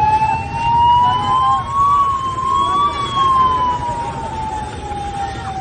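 Emergency vehicle siren in a slow wail, its pitch rising and falling twice, over a low background rumble.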